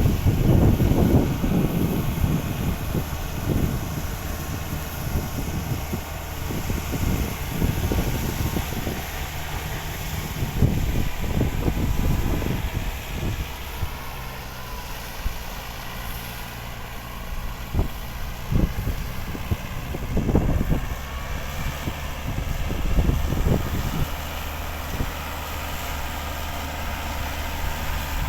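Tractor engine running steadily with an even low hum. Gusts of wind buffet the microphone, heaviest in the first half.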